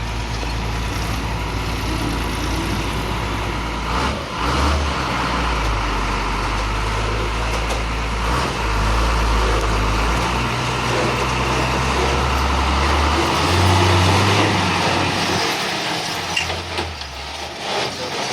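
Heavy diesel engine running hard under load, its note rising and falling several times as the throttle changes, then easing off near the end, with a few clicks and knocks.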